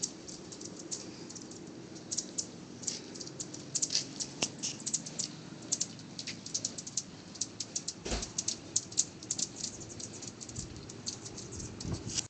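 Hummingbirds chattering around a feeder: many quick, high, dry chip notes ticking out irregularly, sometimes in rapid runs. There is one louder bump about eight seconds in.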